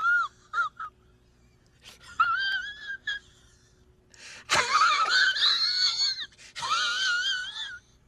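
High-pitched, voice-like wailing cry from a sound-effect clip, wavering in pitch. It comes in several bursts: two short ones near the start, one a couple of seconds in, then two longer, louder cries in the second half.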